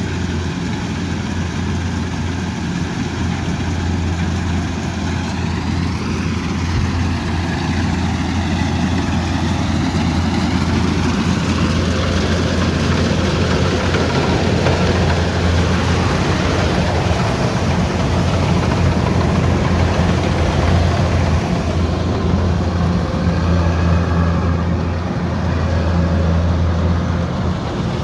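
Kubota combine harvester running steadily: a constant low engine hum under a broad mechanical din, growing a little louder over the first ten seconds or so.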